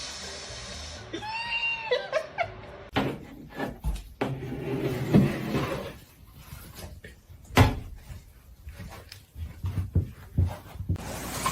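A short animal call with a bending pitch, followed by a series of irregular knocks and clicks.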